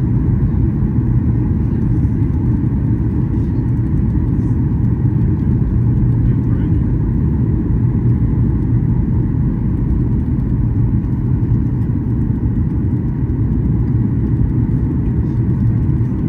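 Boeing 737-800 cabin noise in flight: a steady, even drone of engines and airflow with a low hum beneath it.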